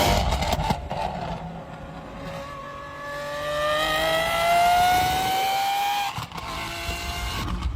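V12 supercar engine at full throttle, with a loud rough burst at the start. About two and a half seconds in it pulls up through the revs in a high-pitched scream that climbs steadily in pitch, then breaks off suddenly about six seconds in and drops to a lower rumble.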